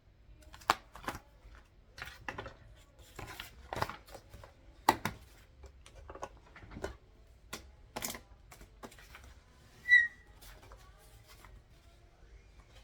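Office desk work: irregular clicks, taps and light rustles of paper and desk objects being handled. About ten seconds in comes a short, high ringing ping, the loudest sound here.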